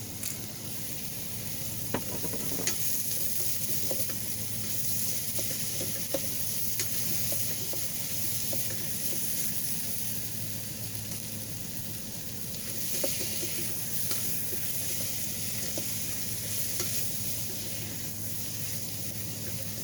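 Peppers and onions sizzling in oil in an Instant Pot on sauté, with a utensil clicking and scraping against the pot now and then as they are stirred.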